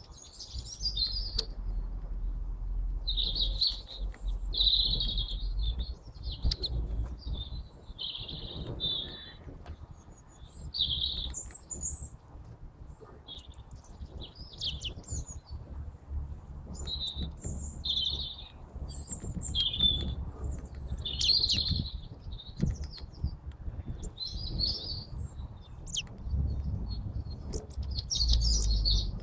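Tits giving short, repeated high chirps and calls, one after another, over a low rumble.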